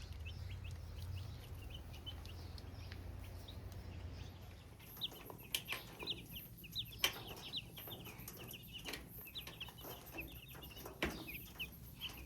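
Baby chicks cheeping: many short, high peeps, sparse at first and denser and louder from about five seconds in, with scattered sharp taps from scratching in wood shavings. A low hum runs underneath and stops about five seconds in.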